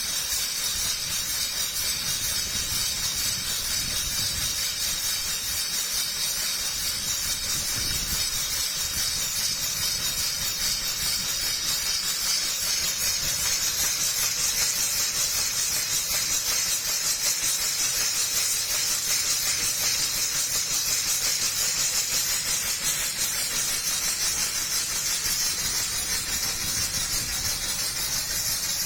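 1917 Port Huron 24/75 Longfellow steam traction engine idling, giving off a steady hiss of steam.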